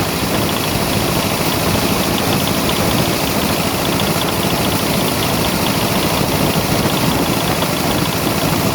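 An engine running steadily at a constant speed, with no change in pace.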